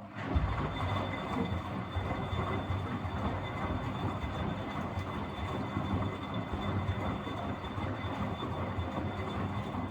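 Miele W761 washing machine's drum turning during the wash: a steady rumble with a low hum that starts abruptly and stops after about ten seconds, one stretch of the drum's back-and-forth wash rhythm.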